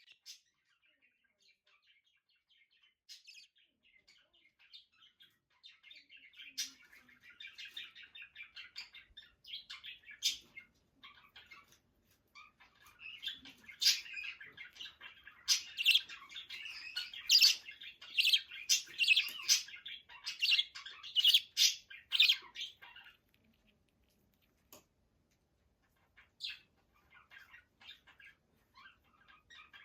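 A tame pet bird chirping and chattering. The calls start sparse, grow into continuous chatter, and become loud, sharp squawks about halfway through. They stop briefly and then resume near the end.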